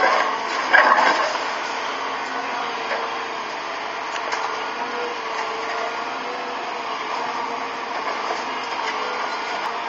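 Heavy excavator engine running steadily, with a loud crash about a second in, as of debris being broken or dropped.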